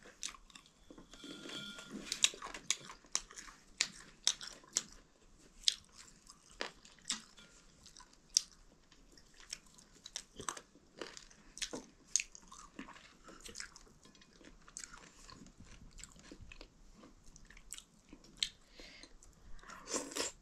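Close-up eating: chewing, with many sharp, irregular mouth clicks and smacks, as chicken meat and maize dhido are eaten.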